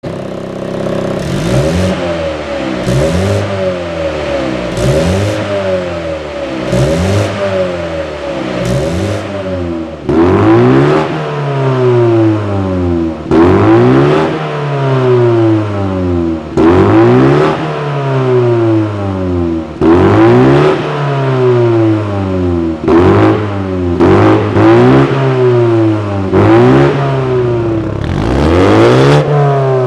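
Exhaust of a BMW F40 120i with its middle and end mufflers gutted, the turbocharged four-cylinder revved again and again while standing, each rev rising and falling about every two seconds. The revs get louder and sharper from about ten seconds in.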